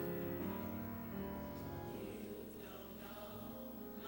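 Gospel choir singing, holding long sustained notes over church band accompaniment.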